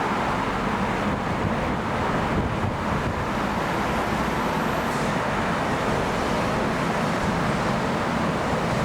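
Airbus A380's four Rolls-Royce Trent 900 turbofans on departure, a steady, dense engine noise heard from the ground.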